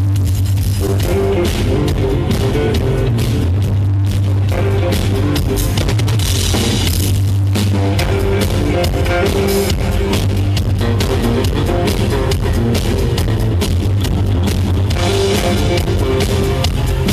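Live band playing an instrumental passage, with drums hitting steadily over a heavy bass, guitar and other pitched instruments, loud and unbroken.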